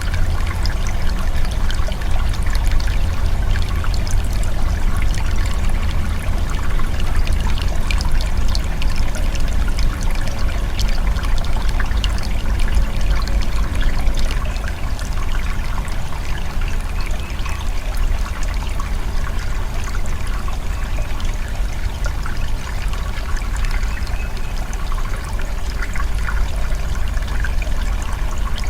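Steady trickling and splashing water over a deep, continuous rumble.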